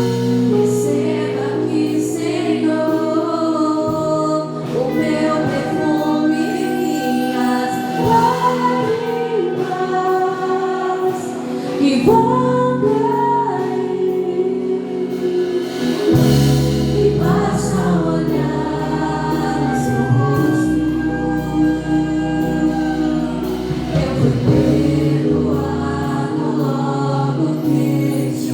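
Gospel worship music: several voices singing together in long held phrases over sustained instrumental accompaniment with a steady low bass.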